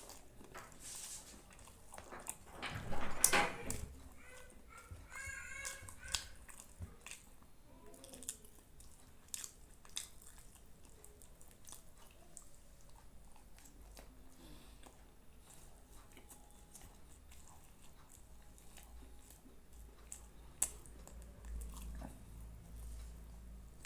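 A person eating close to the microphone: chewing and small mouth clicks, with a louder bite about three seconds in and another sharp click near the end.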